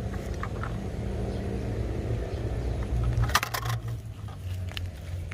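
A short, rapid clatter of small hard objects knocking together about three seconds in, with a couple of single clicks just after, over a steady low rumble.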